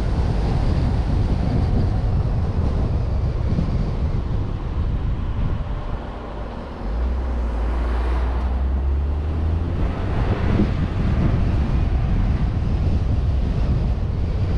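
Car driving along a road: steady engine and road rumble with wind noise on the microphone. About halfway through, a steady low engine note comes in for a few seconds, and the noise swells briefly twice.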